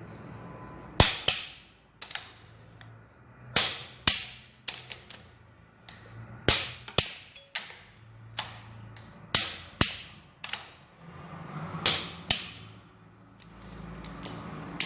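Click-type torque wrench clicking as it reaches its set torque on the engine's cylinder head nuts. The sharp clicks come in close pairs about every two and a half seconds, with smaller clicks between.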